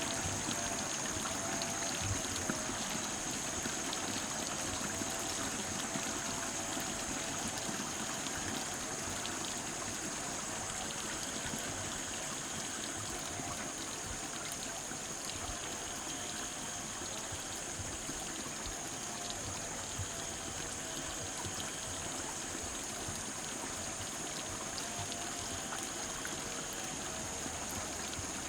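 Steady running water, like a stream or trickle, with a steady high-pitched whine throughout.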